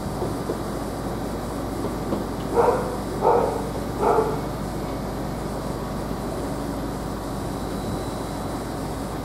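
A dog barks three times in quick succession, about two and a half to four seconds in, over a steady background hum.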